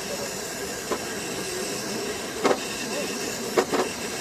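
Electric motor and gearbox of a radio-controlled Dodge Power Wagon model truck whirring steadily under load during a truck pull. A few short knocks come about a second in, at two and a half seconds, and twice near the end.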